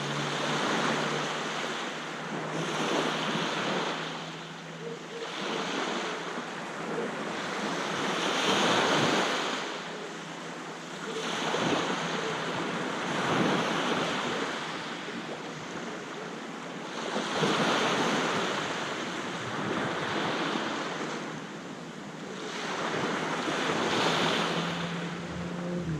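Sea waves washing onto a beach, the surf swelling and falling back about every three to four seconds.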